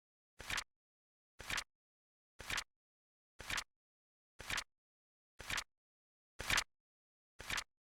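Flip clock timer's flip sound effect: a short, crisp card-flip once every second, eight flips in steady rhythm, each with a quick double-stepped attack.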